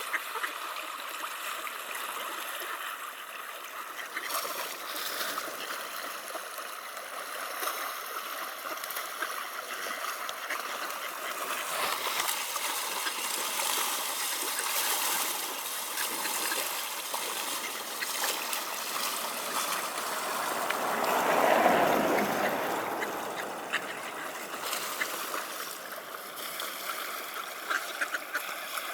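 River water flowing steadily, with trickling and small splashes. A louder swell of noise rises and falls over a couple of seconds about three-quarters of the way through.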